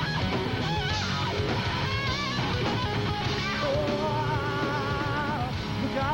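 Live rock band playing an instrumental passage, with an electric guitar lead line of bent notes and vibrato over the band.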